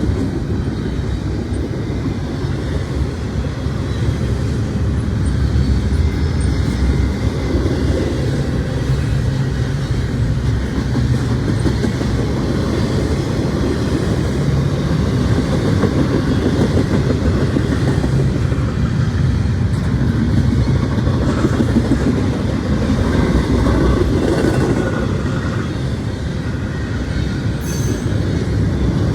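Norfolk Southern intermodal freight train rolling past, a steady loud rumble of wheels on rail.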